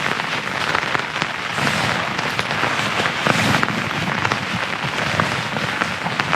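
Crackling, crinkling rustle of a plastic pack liner as a sleeping bag is stuffed down into a rucksack, over rain pattering on the tent.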